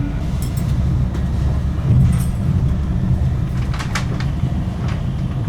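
Train running on the line: a steady low rumble with a few short sharp clicks and rattles, the loudest about four seconds in.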